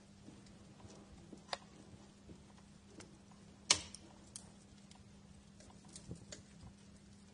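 Wood fire crackling with scattered sharp pops, the loudest one about three and a half seconds in and a cluster of smaller ones near the end, over a faint steady low hum.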